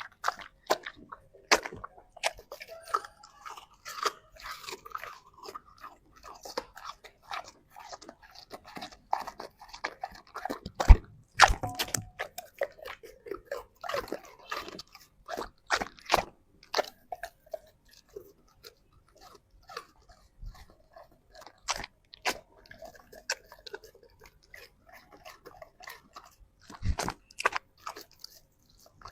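A large dog chewing and biting through food, with irregular wet crunches and crackles. The sharpest crunch comes about 11 seconds in.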